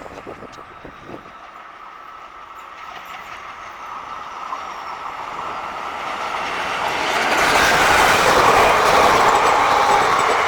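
Indian Railways train approaching, growing steadily louder, then running close by and loud for the last few seconds with the rumble and clatter of wheels on the track.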